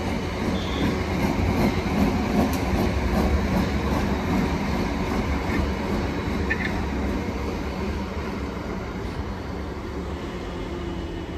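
South Western Railway electric multiple unit running past and drawing away, a steady rumble with wheel clatter over the rail joints that slowly fades after its loudest point about two to three seconds in.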